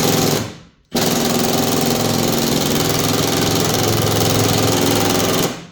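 Impact wrench hammering on a mower-deck spindle fastener: a short burst, then after a brief pause a long continuous burst of rattling hammering that stops suddenly, as the fastener resists coming loose.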